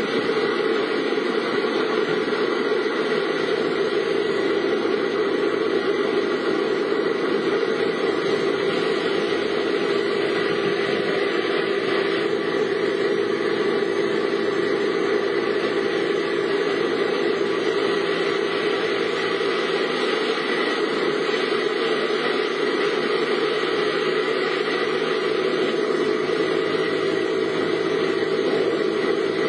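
Steady running hum of a car's engine heard inside the cabin, with an even background of noise and no change in pitch.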